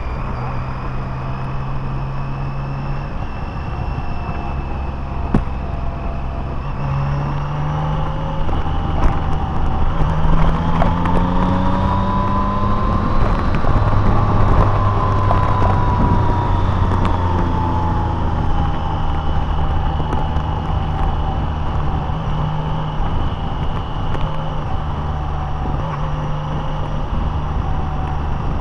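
Car engine and road noise while driving, the engine note shifting in pitch several times, with a higher whine that rises and then falls over the middle stretch.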